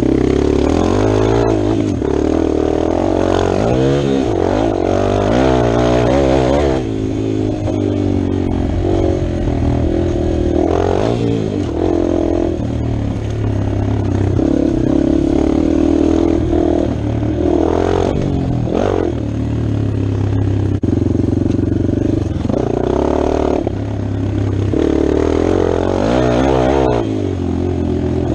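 Dirt bike engine revving hard and easing off again and again, its pitch climbing and falling as it is ridden over jumps and whoops.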